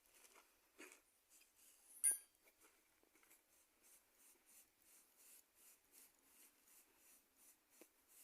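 Faint rhythmic scraping, about two strokes a second, with one sharp metallic clink about two seconds in.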